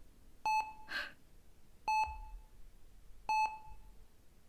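Hospital patient monitor beeping steadily, one short high beep about every second and a half, three times. About a second in there is a short breathy sound like a sigh.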